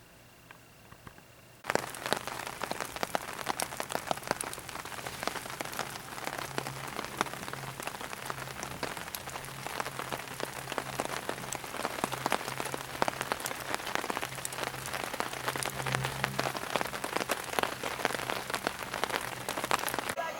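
Rain pattering steadily on a surface, a dense even patter of countless small drops that starts abruptly about a second and a half in, after near silence.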